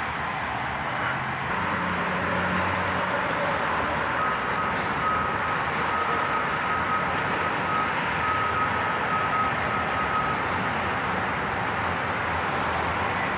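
Steady distant rumble of a work train running along the elevated bridge tracks, with a faint high thin whine from about four seconds in until about ten seconds.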